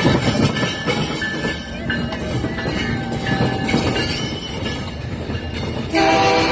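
Freight train rolling past close by, its wheels rumbling and clacking on the rails with faint high squeals. A train horn starts suddenly near the end.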